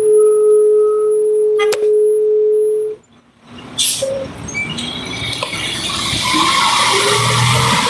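A steady whining tone that cuts off suddenly about three seconds in, then a sharp knock, then road noise of a car approaching that grows louder toward the end.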